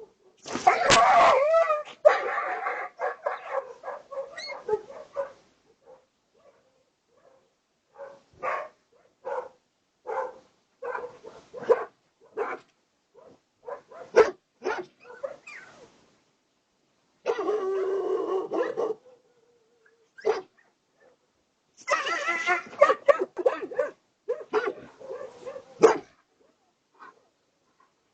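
Dog barking in irregular bursts, with short yelps between them. A long loud stretch of barking comes in the first two seconds and again around two-thirds of the way in.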